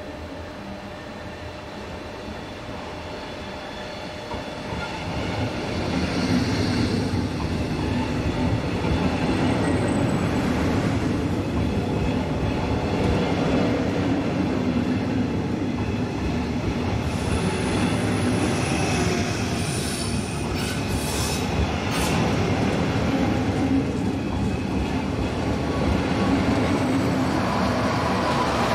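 A regional train of double-deck coaches, pushed by a DB class 112 electric locomotive at the rear, rolling past into the station. It grows louder over the first few seconds, then its wheels rumble and clatter steadily on the rails, with some high wheel squeals about two-thirds of the way through.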